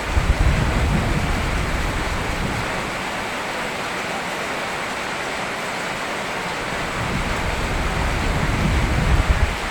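Steady rain falling, with a low rumble swelling up near the start and again near the end.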